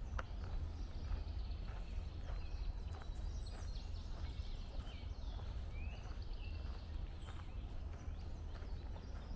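Footsteps on a trail, about two a second, with several wild birds chirping and calling over a steady low rumble.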